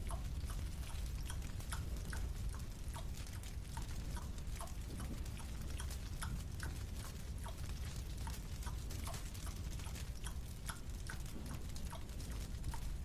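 Chewing of a marshmallow: soft, wet, sticky mouth clicks, irregular at two or three a second, over a steady low rumble.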